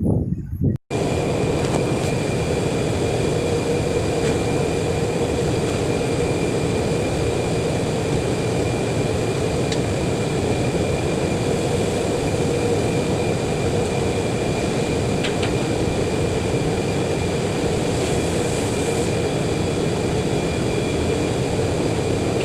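Steady machine noise: an even, unchanging drone with a constant high whine running through it, starting abruptly about a second in.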